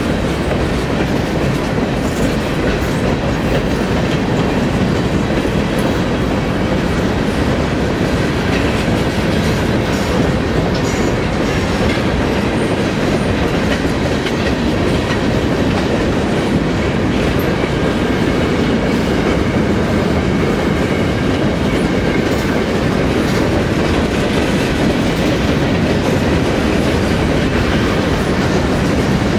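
Freight cars (boxcars, centerbeam flatcars and tank cars) rolling past on the rails: a loud, steady noise of steel wheels running over the track.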